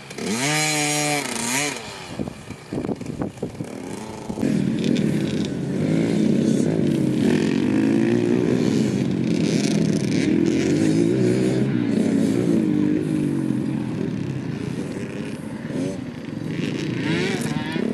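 Motocross bike engines revving: one bike rising and falling in pitch at first, then, from about four seconds in, several bikes running together with overlapping engine notes rising and falling as they are ridden around the track.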